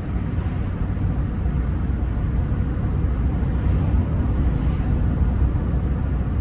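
Rolls-Royce Silver Spirit III on the move: a steady low rumble of road and engine noise.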